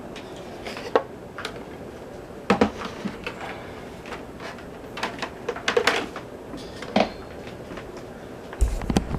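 Scattered clicks and knocks of a metal table fan being handled and turned over, with a louder clatter and thump near the end.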